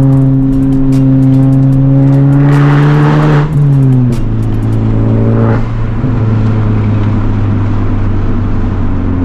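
Honda Civic Type R's turbocharged four-cylinder, with a catless downpipe and resonator delete, pulling under load with its pitch climbing slowly. The revs fall with a hiss about three and a half seconds in and again at about five and a half seconds, then the engine runs steadily at lower revs.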